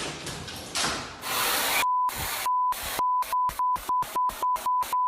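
A loud, noisy clatter gives way to a pure censor bleep tone. The bleep is chopped on and off against loud noisy bursts, speeding up to about four bleeps a second.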